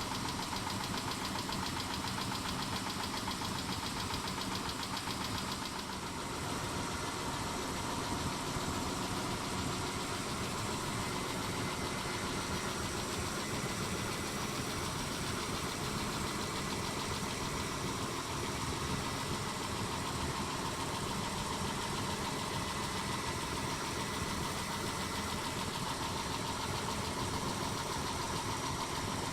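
Mitsubishi 6G72 V6 engine idling steadily with a rapid, even ticking from the top end, which the owner takes for knocking hydraulic lifters but is not sure of.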